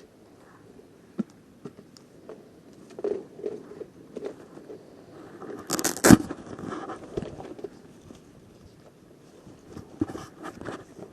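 Scattered rustling, crunching and scraping, with one louder, longer scrape about six seconds in and a quick cluster of clicks near the end.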